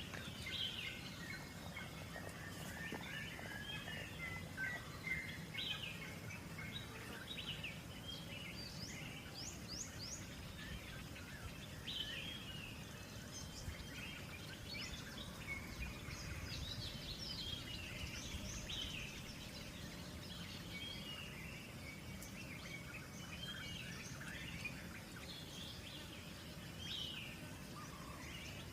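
Forest birds chirping and calling, many short quick calls overlapping, over a steady low background noise.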